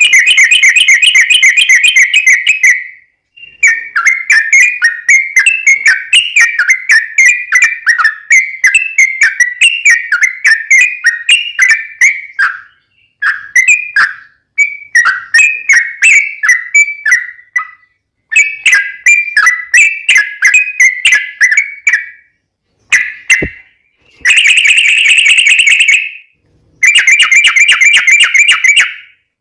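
Yellow-vented bulbul (trucukan) song: long runs of fast, bubbling, chattering notes, broken by short pauses and ending in a few denser buzzy bursts. The recording is very loud and distorted.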